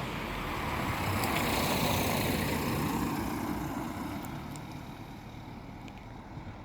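A road vehicle passing by: engine and tyre noise swells to a peak about two seconds in, then fades away.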